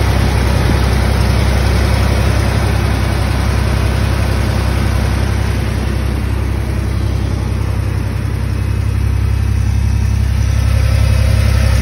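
Toyota T100 pickup engine idling steadily, with the freshly resealed power steering pump running on it.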